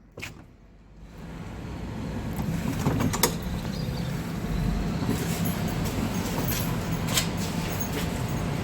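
Tram running, its rumble building over the first couple of seconds and then holding steady with a low hum. Sharp clicks come about three seconds in and again about seven seconds in.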